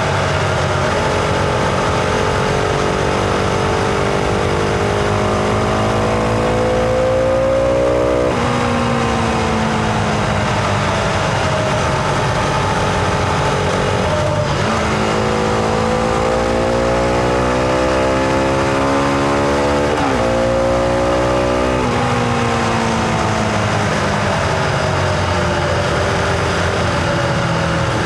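Husqvarna Vitpilen 701's single-cylinder engine and exhaust under way on a ride. The revs climb, drop sharply at gear changes about eight and twenty seconds in, and fall away near the end as the bike slows.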